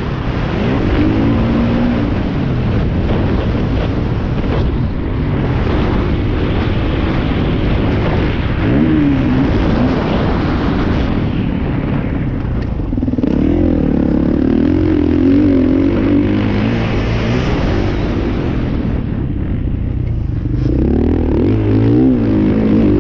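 Motocross motorcycle engines running on the track, their pitch rising and falling as the riders work the throttle. The sound swells about halfway through and again near the end.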